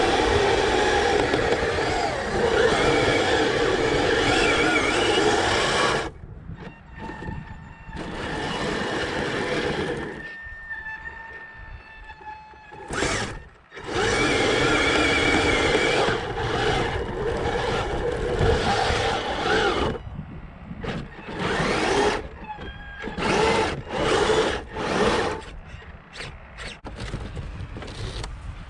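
Kyosho Blizzard 2.0 RC tracked vehicle's electric drive motors and tracks running hard with a whine for about six seconds, then in shorter bursts with quieter pauses between them as the throttle comes on and off.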